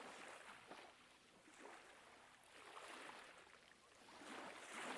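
Faint ocean surf: a soft, hissing wash of waves that swells and eases every second or two, loudest near the end.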